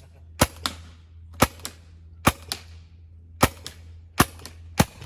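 Six sharp shots from a shooting-gallery gun fired at bottle targets, roughly one a second with a quicker pair near the end, most followed a moment later by a fainter click. A steady low hum runs underneath.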